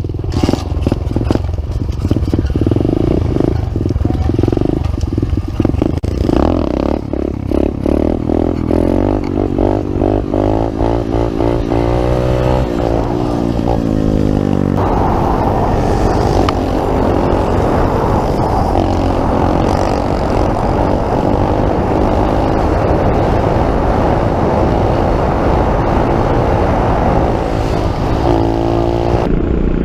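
Pit bike engine pulling away and revving up through the gears, its pitch climbing again and again, then running steadily at high revs from about halfway through, with a short rise and fall in pitch near the end.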